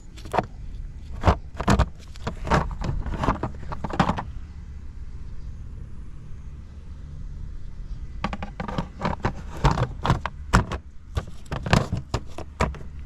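Honda Motocompo's 49cc two-stroke single-cylinder engine running steadily at idle, with no abnormal noise. Over it come clusters of sharp clicks and knocks, in the first few seconds and again from about eight seconds in.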